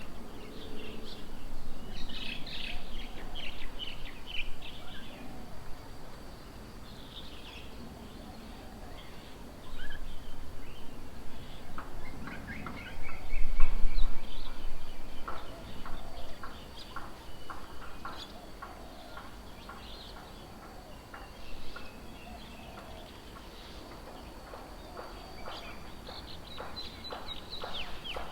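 Several wild birds chirping and calling, with a fast run of short repeated notes through the middle and again near the end. A brief low rumble about halfway through.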